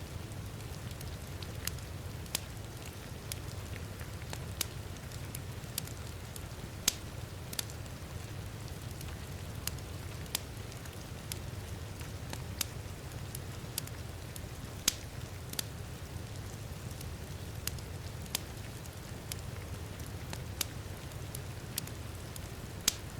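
Wood fire crackling in a fireplace, with sharp pops coming irregularly about once a second over a steady low rumble, and rain falling steadily.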